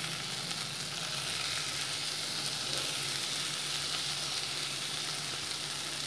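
Chicken samosa filling sizzling steadily in a frying pan on the stove, a soft even hiss, with a low steady hum underneath.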